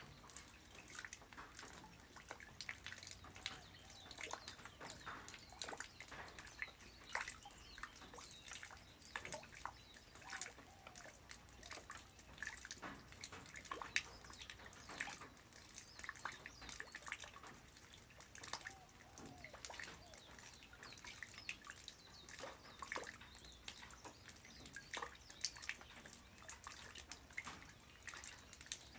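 Light rain falling on the ground: a faint, steady patter of many separate drops over a soft hiss.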